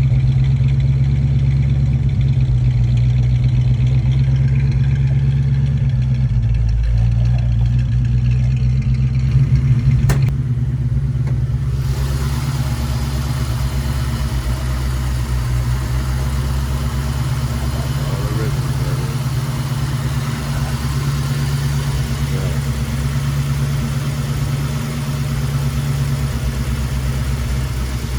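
1968 Ford Mustang engine idling steadily through its dual exhaust, with a short click about ten seconds in.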